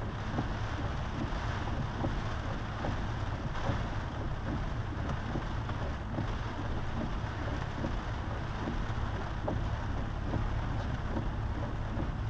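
Steady cabin noise of a lifted Jeep driving on a wet road in rain: a low rumble of tyres and wind with scattered small ticks of rain.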